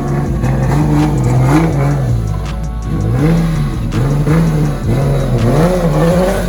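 Car engine revving up and down over and over, its pitch rising and falling about once a second, with some music underneath.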